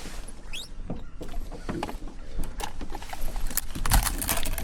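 Fishing reel being cranked in, giving irregular mechanical clicks and knocks, with a brief rising squeak about half a second in. Wind rumbles low on the microphone throughout.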